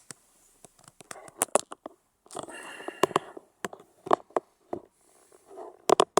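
Scattered clicks, knocks and rustling from a camera being handled and positioned inside a pickup truck's cab, with the engine off.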